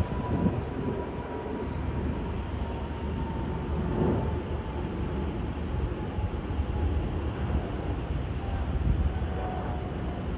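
Jet airliner passing low overhead: a steady rumble with a faint whine that slowly falls in pitch.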